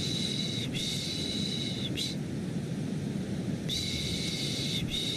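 Rhythmic 'shh, shh' hushing sounds (Turkish 'piş piş') for soothing a baby to sleep, about a second each, over a steady bed of white noise. There is a pause of about a second and a half near the middle before the shushing resumes.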